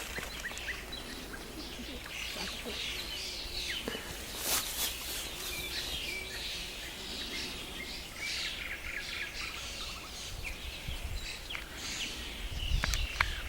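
Several songbirds chirping and singing, short calls and trills overlapping throughout, over a steady low rumble of outdoor background noise.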